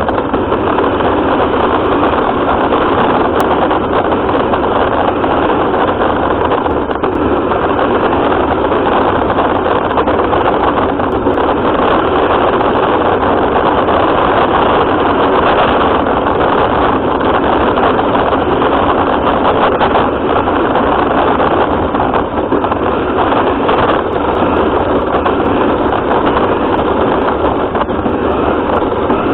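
RC car running, heard from a camera mounted on it: a loud, steady, even noise of motor, drivetrain and tyres with no pauses.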